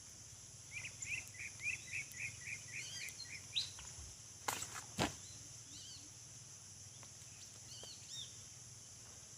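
Small birds chirping: a quick run of about eight chirps in the first few seconds, then scattered single calls, over a steady high hiss. Two sharp knocks about halfway through.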